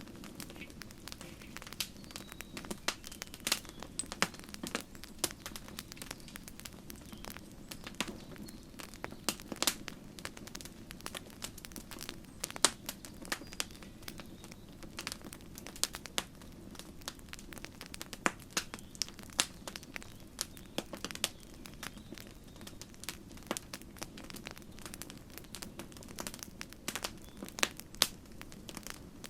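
Campfire crackling steadily, wood snapping and popping in quick irregular clicks, a few much louder than the rest, over a low steady rumble of the flames.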